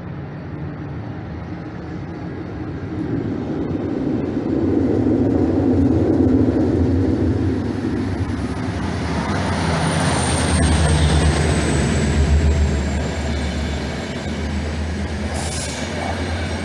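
Passenger train passing, a heavy rumble that swells over several seconds, with a thin high wheel squeal that glides slowly down in pitch through the middle of the pass.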